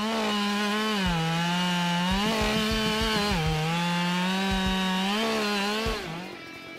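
Husqvarna 572 XP two-stroke chainsaw running at high revs. Its pitch drops twice as the chain loads up in the cut and then recovers. Near the end it eases off and fades.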